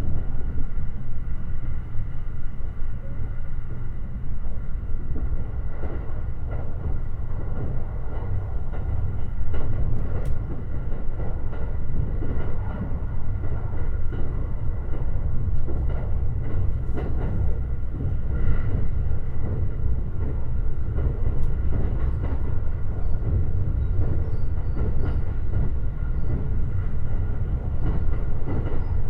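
Limited Express Shirasagi electric train running at speed, with a steady low rumble of wheels on rail, a faint steady whine and a few faint clicks.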